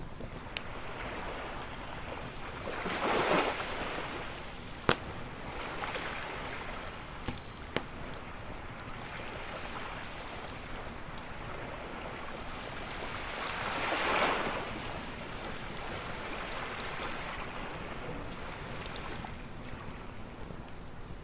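Waves washing onto a beach, swelling twice, about 3 seconds in and again around 14 seconds, over a campfire crackling with a few sharp pops.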